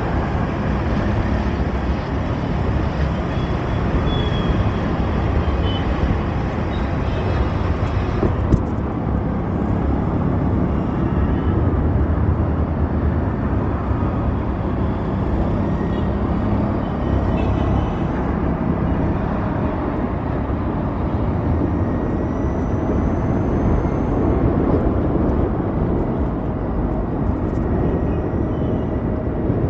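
Road traffic noise heard from a moving Ather 450X electric scooter in city traffic: a steady low rumble with hiss above it. The higher hiss thins out about eight seconds in.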